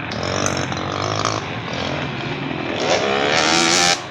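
Motocross dirt bike engines revving on the track. In the last second one bike climbs in pitch and grows louder, then the sound drops off suddenly.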